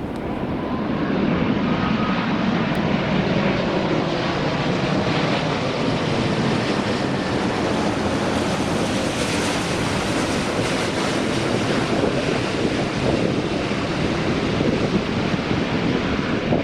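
Jet engine noise from a British Airways Airbus A380-800 on landing approach, its four Rolls-Royce Trent 900 engines growing louder over the first second or two and then holding steady. Wind buffets the microphone throughout.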